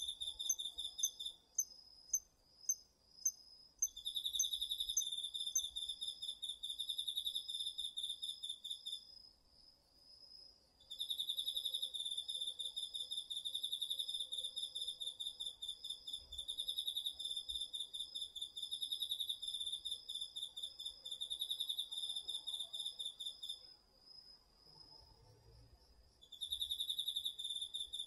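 Chorus of autumn crickets. One sings long pulsing trills that each last several seconds, with short pauses between them. A second, higher-pitched insect trills steadily underneath, and a third gives a few short sharp chirps about twice a second in the first few seconds.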